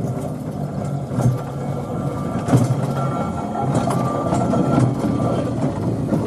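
Rail vehicle running along the track: a steady low rumble with a few sharp clicks and a faint thin whine through the middle.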